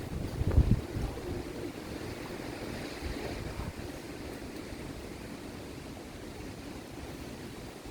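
Wind blowing, with low rumbling gusts buffeting the microphone in the first second, then a steadier rush.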